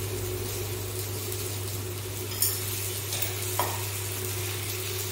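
Uttapam frying on a hot dosa tawa: a steady sizzle over a low hum, with two light clicks of a utensil a couple of seconds in and about a second later.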